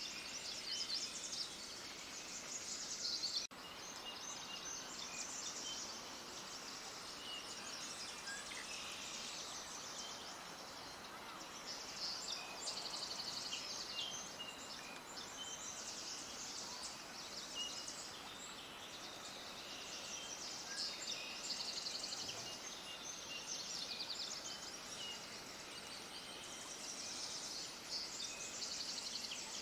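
Many small birds chirping and twittering together in a dense, continuous high-pitched chorus over a faint outdoor noise bed, with a brief dropout about three and a half seconds in.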